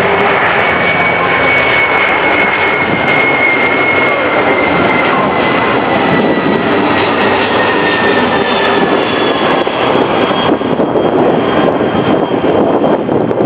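Boeing 757 twin-engine jetliner flying low past: a loud jet roar with a high turbofan whine that slowly falls in pitch as the plane goes by.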